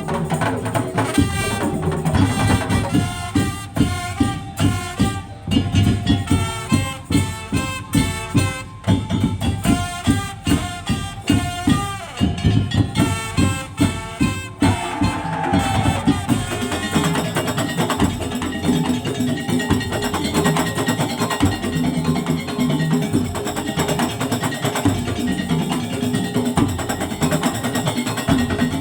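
Madurese tong-tong (daul) music: a percussion ensemble playing loud, fast struck rhythms in choppy, stop-start phrases for about the first half, then changing to a fuller, more continuous passage.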